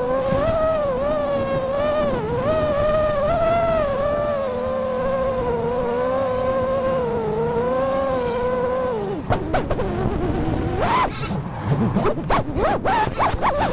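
FPV quadcopter's electric motors whining, the pitch wavering up and down with the throttle. About nine seconds in the whine drops away, and a run of short, irregular clicks and knocks follows, with brief swoops in pitch.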